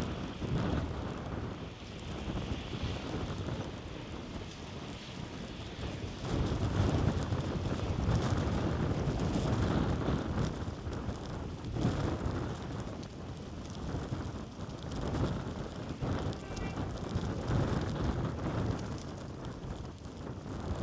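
Blizzard wind blowing in gusts, with low rumbling wind buffeting on the microphone; it swells and eases, loudest about a third of the way in.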